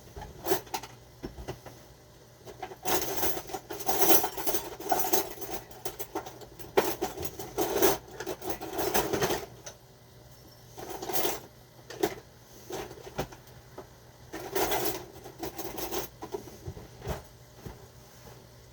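Tongs clicking and scraping against a pan as meatballs are turned, in irregular bursts of clatter with short pauses between.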